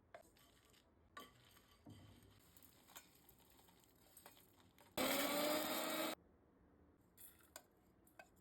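Light knocks and clinks from kitchen work, then a small electric kitchen appliance motor runs briefly about five seconds in, its pitch rising as it spins up, before cutting off after about a second. It is the loudest sound here.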